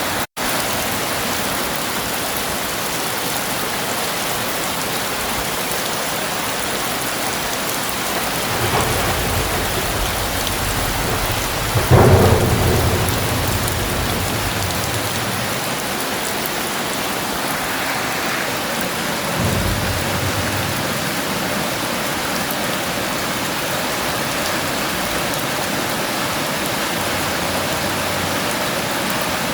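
Steady heavy rain with a thunderclap: rumbling builds from about eight seconds in and peaks in a sharp crack about twelve seconds in, then fades over a couple of seconds. A smaller roll of thunder follows about twenty seconds in.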